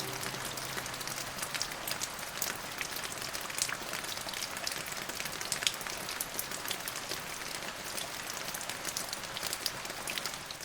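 Steady rain falling, a constant hiss studded with many separate drop hits. A last low note of the song dies away in the first second or so, and the rain fades out right at the end.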